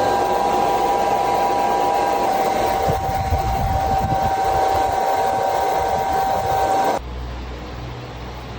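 Hair dryer running with a steady whine over its rushing air, switching off abruptly about seven seconds in.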